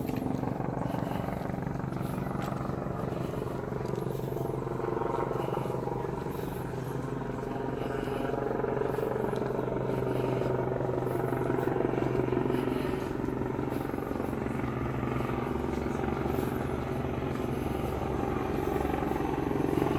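A steady engine drone with a low, unchanging hum, over a murmur of many voices.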